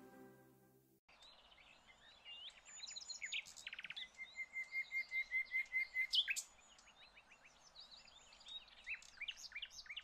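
Background music fades out in the first second, then several birds call together: quick high chirps and whistled sweeps, with one bird repeating a single note about four or five times a second, growing louder in the middle.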